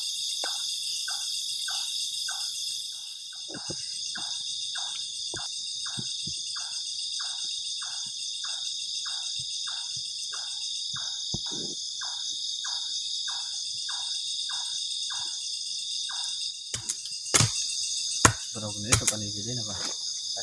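Night chorus of crickets and other insects, a steady high-pitched chirring. A regular mid-pitched call repeats about twice a second over it and stops about three-quarters of the way through. Near the end there are a few sharp knocks.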